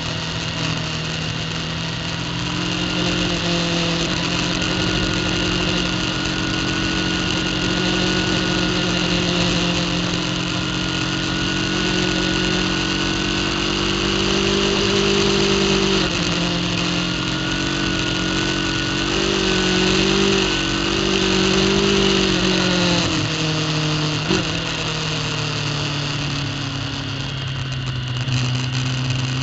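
Racing superbike engine heard from an on-board camera, pulling hard at high revs, its pitch climbing slowly and then stepping down sharply about halfway through. After that it wavers, drops off around three-quarters of the way in and starts to climb again near the end, with steady wind rush throughout.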